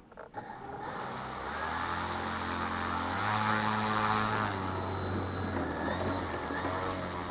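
Electric motor and propeller of a Seagull Models Spacewalker 2 RC model plane (6S, 2.5 kW) running: a pitched propeller hum that builds up about a second in, is loudest in the middle, then sinks slightly in pitch as it carries on.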